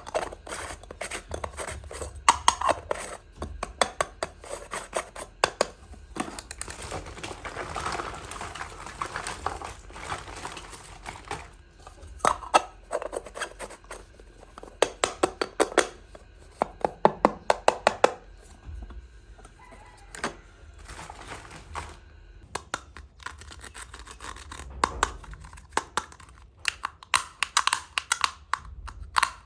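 Small plastic toy pieces being handled and set down, with runs of sharp clicks and taps and some rustling of packaging between them.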